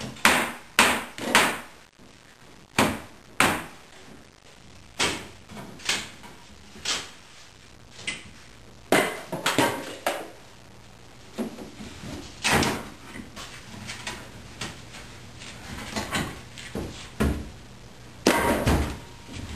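A long series of sharp knocks and clanks at irregular intervals, each ringing out briefly, from a motorcycle shipping crate being taken apart. They come thick and fast at first, thin out, then bunch up again near the end.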